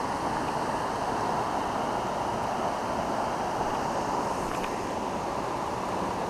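Steady rush of flowing creek water, an even hiss without pauses.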